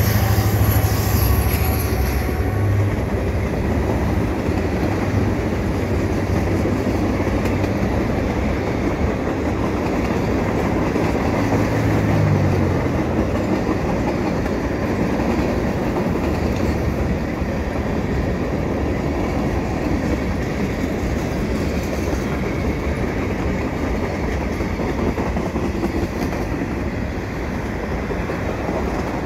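A freight train passing: a mid-train diesel distributed-power locomotive's engine runs strongly in the first few seconds and fades over about a dozen seconds. After that comes the steady rolling noise of freight cars' wheels on the rails.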